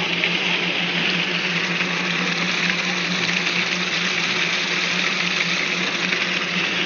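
Twin-shaft concrete mixer pump running steadily under load: a constant low motor hum beneath a loud, even rushing noise. It cuts off suddenly at the end.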